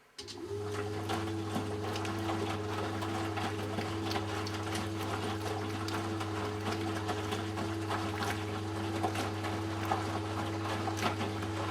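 Washing machine drain pump switching on just after the start and running with a steady low hum and water churning through it, pumping out the pre-wash water of a Eudora Sparmeister 702 Classic.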